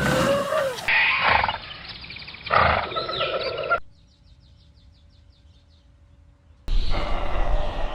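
Animal calls in several spliced clips that cut abruptly from one to the next. The first part holds pitched, sliding calls. In the middle there is a quieter stretch with a faint rapid chirping, and near the end a loud, rougher call begins.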